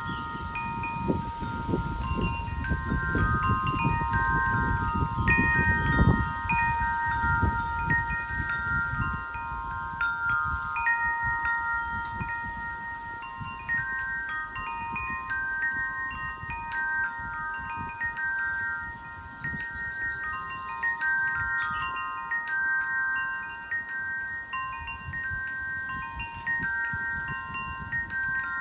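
Wind chimes ringing in the wind, several clear notes struck again and again and overlapping. Low wind rumble sits under them, strongest in the first third.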